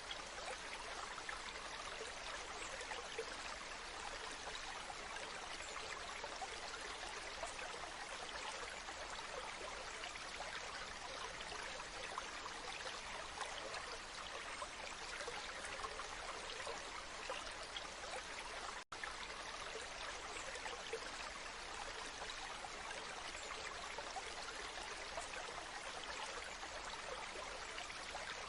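Waterfall: a steady, even rush of falling water, with a split-second dropout about two-thirds of the way through.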